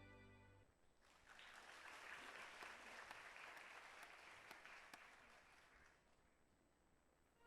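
Faint audience applause, starting about a second in and dying away near the end, as the last note of the song fades out.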